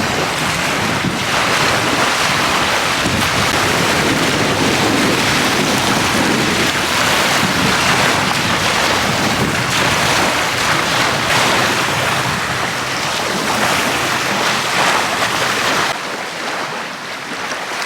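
Steady, loud rushing of wind and waves on Lake Superior, with wind buffeting the microphone. It drops slightly in level about sixteen seconds in.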